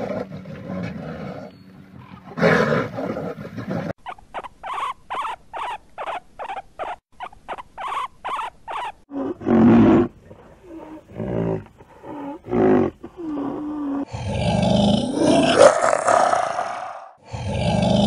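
A run of animal calls: a few short grunts, then a rapid series of evenly spaced pulses at about three a second, more short calls, and finally loud, long growls and roars from brown bears wrestling upright in the last four seconds.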